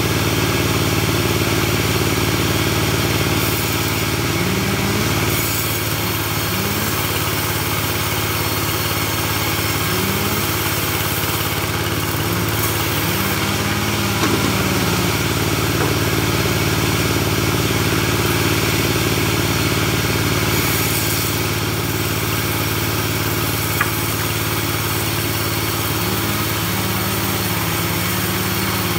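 Engine of a portable bandsaw sawmill running steadily at an even pace.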